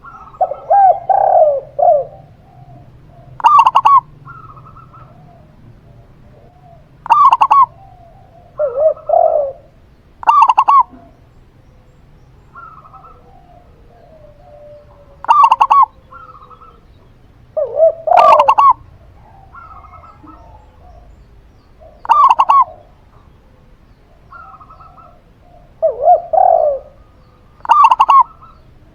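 A zebra dove (perkutut) and a spotted dove (tekukur) cooing in turn. A sharper, higher coo phrase comes every three to four seconds, and a lower, rolling coo phrase comes four times in between.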